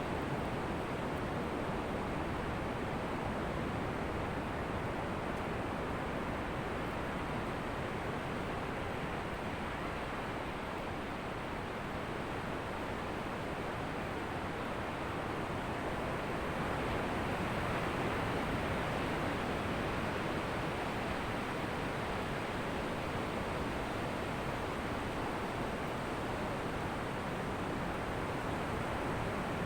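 Ocean surf washing on a beach: a steady rush of waves, swelling a little louder a little past the middle.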